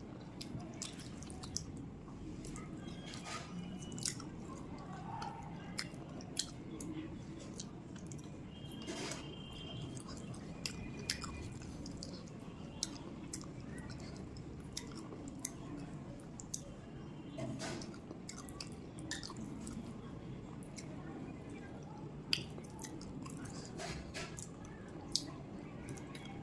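Close-miked chewing and wet mouth sounds of a person eating rice and curry, with frequent small smacks and clicks scattered throughout over a low steady background hum.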